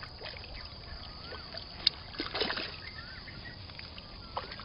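A bird repeats a short whistled note that rises and falls, about every one and a half seconds, over water sounds at a fishing pond. There is a sharp click a little under two seconds in, followed by a brief splash-like rush.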